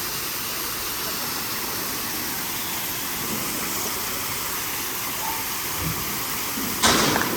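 Steady rushing of a waterfall. Near the end a sudden louder sound cuts in briefly over it.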